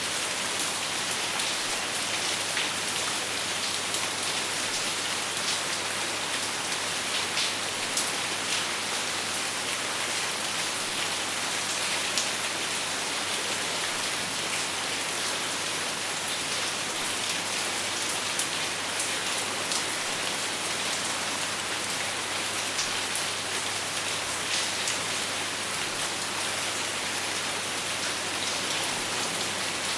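Steady rain falling on a surface, an even hiss with scattered sharp drips, without thunder.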